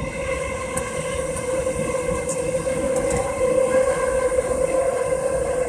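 Tokyu Toyoko Line train running through an underground tunnel, heard from the front cab: steady running noise with a constant mid-pitched whine, growing a little louder about halfway through.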